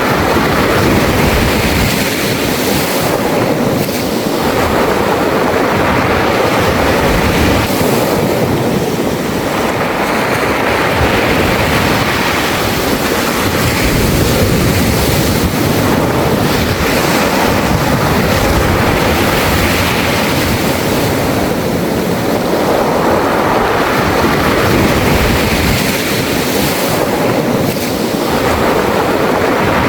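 Sea waves washing in and drawing back over a beach of round mongdol pebbles, the surf swelling and easing in slow surges every several seconds, with some wind buffeting the microphone.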